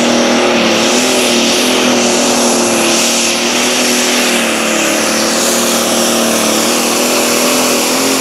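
Engine of a competition pulling tractor or truck running at full throttle, loud and holding a high, nearly steady pitch.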